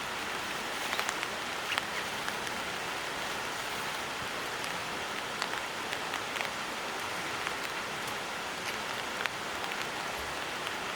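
Steady rain falling, with a constant hiss and many individual drops ticking sharply on nearby surfaces.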